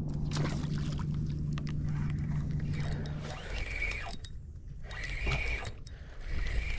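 A steady low hum that stops about three seconds in, then a spinning fishing reel being cranked in short bursts, about one every second and a half, as a lure is worked back.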